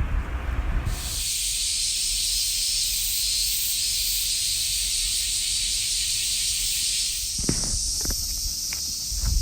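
Steady high-pitched hiss that starts abruptly about a second in, with a few soft knocks near the end.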